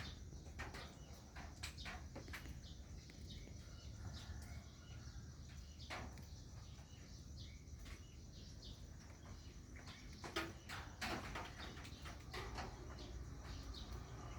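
Songbirds chirping, many short sharp chirps one after another, over a steady low background hum.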